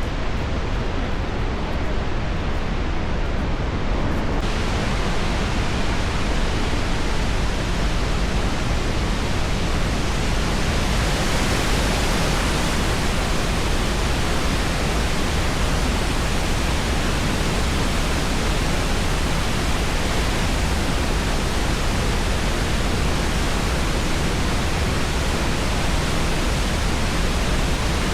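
Steady rushing of falling water, an even roar with no breaks. It turns brighter and hissier about four seconds in.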